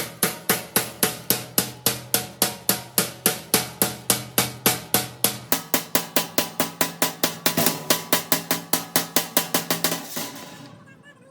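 Hammer striking sheet steel in a fast, even rhythm, about four or five blows a second, each one ringing, stopping near the end.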